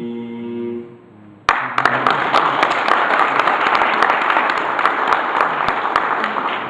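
The final held note of a country song ends about a second in, and half a second later an audience breaks into applause all at once, the clapping carrying on and easing off near the end.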